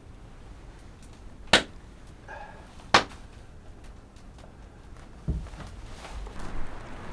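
Two sharp cracks or knocks about a second and a half apart, followed by a low rumble that builds near the end.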